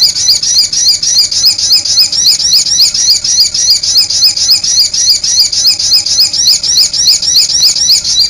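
A songbird repeating one short, high-pitched note rapidly and evenly, several times a second, in a long unbroken run.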